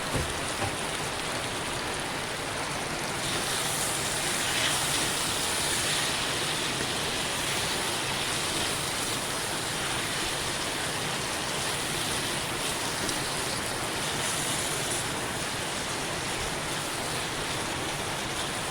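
Ackee and mixed vegetables sizzling steadily as they fry in oil in a pan, growing a little louder a few seconds in.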